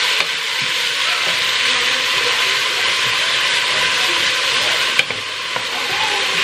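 Carrots frying in a hot pan, a steady sizzle, with one sharp click about five seconds in.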